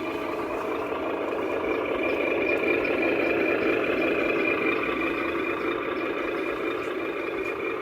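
Remote-control 8x8 truck running, a steady mechanical whine with a thin high tone over it, a little louder in the middle.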